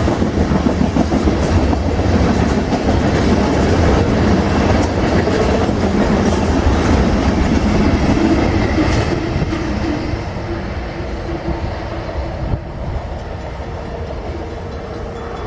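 Freight train of ethanol tank cars rolling past, with wheels clicking over the rail joints. The sound eases after about ten seconds.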